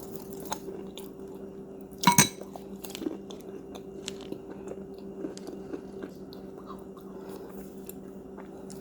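A person biting into a crunchy cookie with one loud crunch about two seconds in, then chewing with small scattered crunches. A steady low hum runs underneath.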